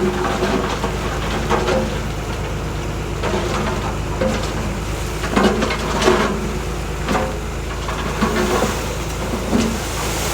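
Heavy diesel earthmoving machine running steadily under load, with irregular knocks and clattering of rock and metal over it every second or so.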